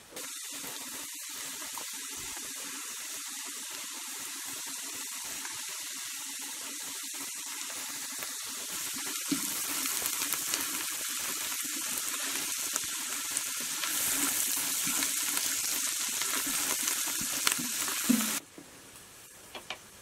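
Chopped vegetables and spices sizzling in hot oil in a non-stick frying pan, stirred now and then with a spatula that gives small clicks. The sizzle grows louder about halfway through and again later, then cuts off suddenly near the end.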